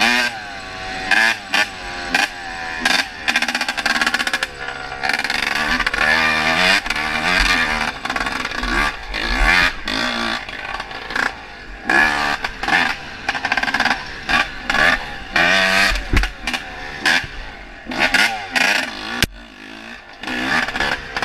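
Freshly rebuilt Honda CR250 two-stroke dirt bike engine being ridden, its revs rising and falling over and over with many short throttle bursts and drops.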